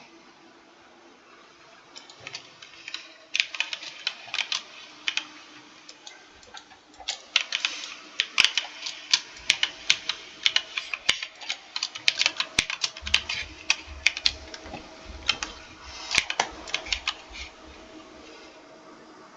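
Typing on a computer keyboard: runs of sharp key clicks start about two seconds in, come thick and fast through the middle with short pauses, and stop shortly before the end.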